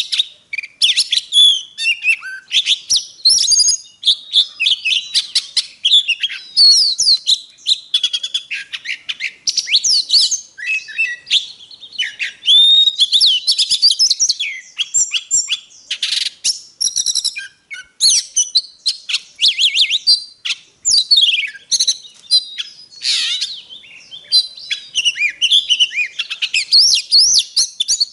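Oriental magpie-robin singing a continuous, varied song of rapid whistles, slurred glides and harsher scratchy notes with no real pauses.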